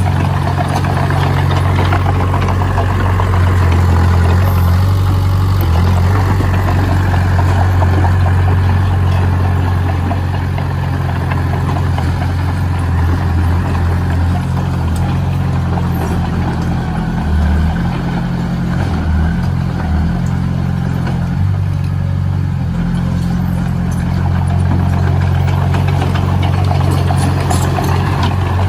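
A heavy machine's engine running steadily, a loud low hum with little change that eases off slightly midway.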